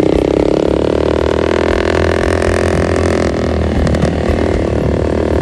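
Motorcycle engine running steadily while riding, a continuous droning hum whose pitch shifts slightly a little past the middle.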